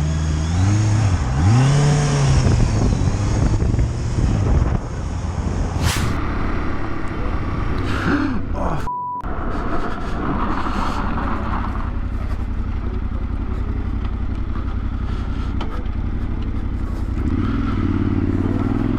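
Motorcycle engine revving up and down through the gears, then running at a steady pitch. A short beep cuts in near the middle.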